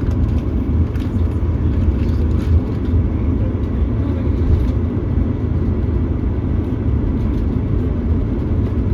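Steady low rumble of a vehicle on the move, heard from inside its cabin, with a few faint clicks early on.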